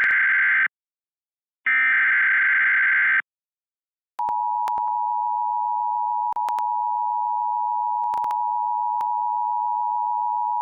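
National Weather Service alert tones: two harsh warbling bursts of SAME digital header data, then about four seconds in the steady 1050 Hz warning alarm tone starts and holds. Together they announce a flash flood warning.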